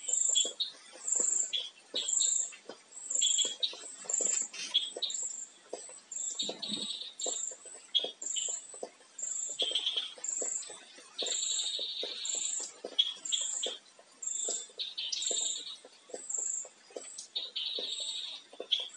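Birds chirping, with one high chirp repeating about twice a second and longer trilling phrases mixed in. Faint short clicks sit underneath.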